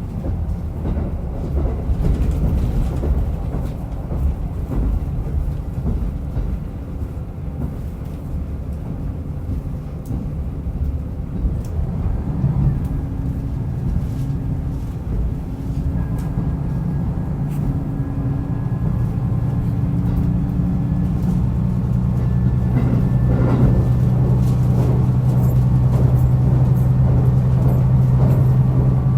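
Diesel railcar running on the Rumoi Main Line: a low rumble of the engine and wheels on rail with scattered clicks. About two-thirds of the way in, a steady engine hum comes up and grows louder, as the engine takes power.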